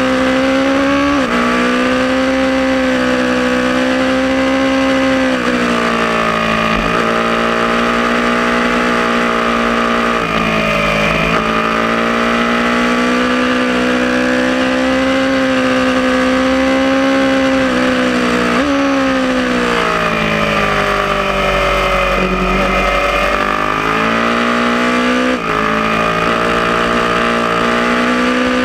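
Aprilia Tuono motorcycle engine running hard at high revs on track, its pitch held steady for long stretches and stepping down sharply at several gear changes. About two-thirds through the revs sag as it slows for a corner, then climb again with another quick shift.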